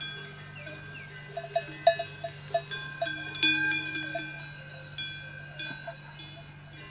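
Metal bells clanking irregularly, several overlapping strikes each ringing on, like bells worn by grazing livestock, over a steady low hum.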